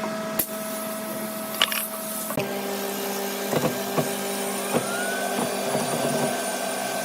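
Electric motor of a woodworking machine running with a steady hum. About two and a half seconds in, the hum drops to a lower pitch and irregular sharp knocks begin.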